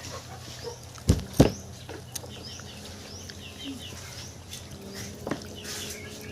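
Small birds chirping repeatedly in the background, with two dull thumps a quarter-second apart about a second in.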